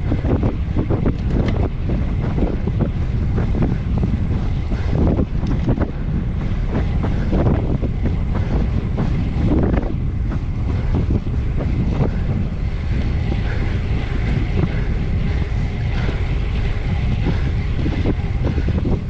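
Heavy wind buffeting the microphone of a bike-mounted camera while cycling hard at speed, a steady low rumble with rough road and tyre noise.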